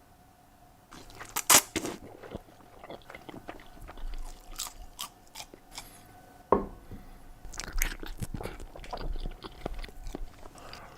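A person eating, chewing and crunching close to the microphone, with irregular sharp clicks and crackles after about a second of quiet.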